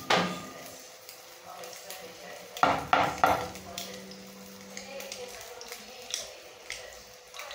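Food frying in hot oil in a pot, a steady sizzle, with a few sharp clatters of kitchenware right at the start and a quick cluster of them about three seconds in.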